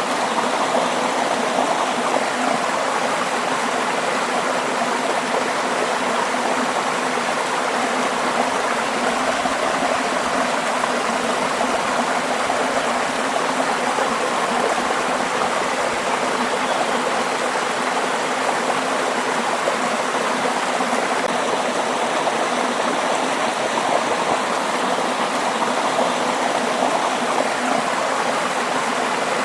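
Waterfall: water falling and rushing in a steady, even roar of noise that does not change.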